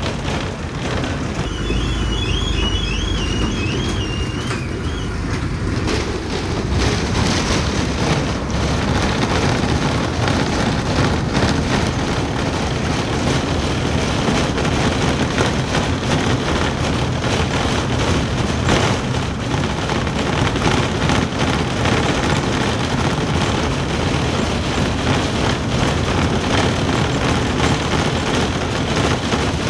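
Steady engine and road noise of a truck on the move, with a brief warbling high tone about two seconds in.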